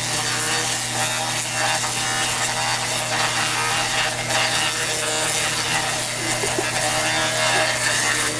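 Pressure washer running steadily, a constant low hum under the continuous hiss of the high-pressure water jet on patio paving.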